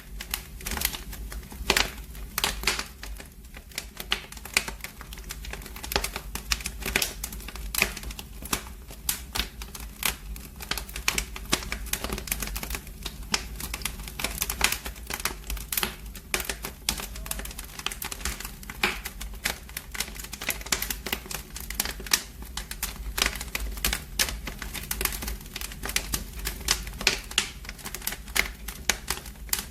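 Wood fire in a fireplace crackling, with dense, irregular pops and snaps over a low steady rumble.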